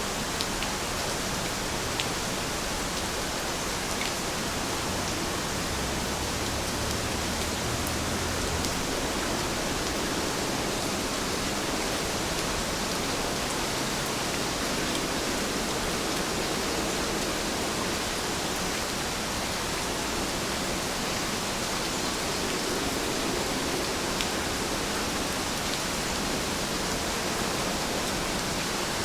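Heavy rain falling steadily: an even, dense hiss, with a few sharper drop ticks now and then.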